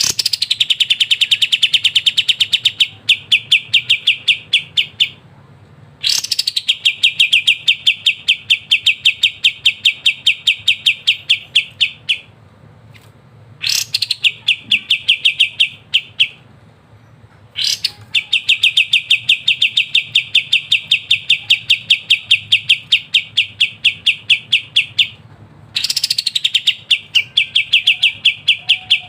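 A kapas tembak songbird delivering its rapid chattering 'ngebren' song: long runs of fast, evenly repeated notes, several a second. Each run starts with a sharp rising note and lasts a few seconds, with short pauses between runs, five runs in all.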